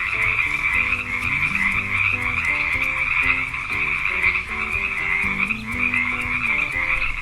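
Frogs croaking in chorus: many calls overlapping in a dense, continuous trill.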